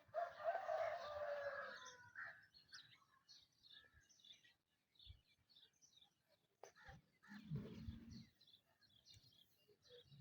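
Bird calls: one loud call lasting about two seconds at the start, then scattered short chirps, with a brief low sound a little before the end.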